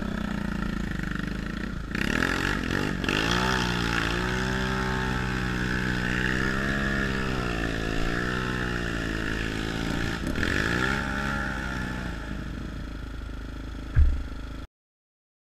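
Enduro dirt bike engine running and revving, its pitch rising and falling several times. A sharp knock near the end, then the sound cuts off abruptly.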